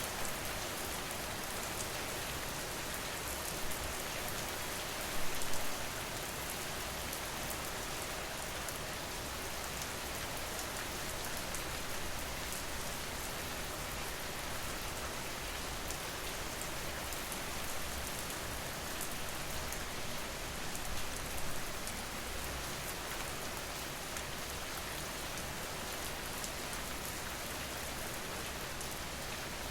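Steady rain falling and pattering on surfaces, with individual drops ticking through it and a couple of brief louder swells, about five seconds in and again around twenty-one seconds.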